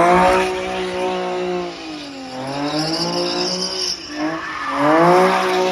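Car engine revving hard, its pitch climbing and falling three times, with tyres squealing at the loudest moments near the start and about five seconds in.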